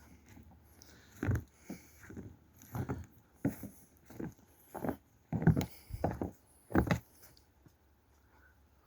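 Footsteps: a run of about a dozen uneven steps that starts about a second in and stops about seven seconds in.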